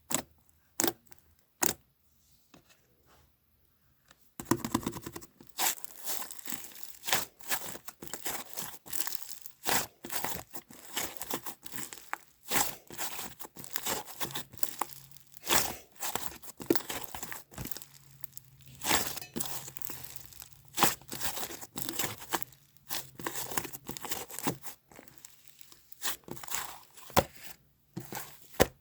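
Something like paper or plastic being handled close by, crinkling and tearing in irregular rustling bursts. It starts after a few quiet seconds broken by a couple of clicks, about four seconds in.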